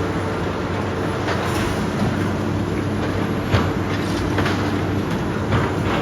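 Heavy demolition machinery running steadily, with irregular knocks and clanks of breaking material, the sharpest about halfway through.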